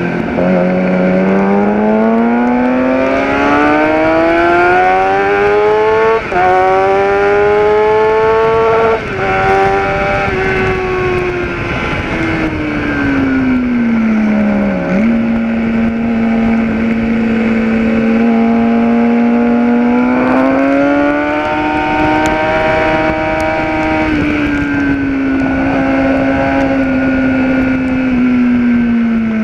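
Gen4 Kawasaki ZX-10R's inline-four engine heard from onboard at track pace. It pulls hard through the gears, with brief breaks at the upshifts about six and nine seconds in. It then winds down under braking, with a quick blip about halfway, holds a steady pitch, pulls again, and eases off near the end.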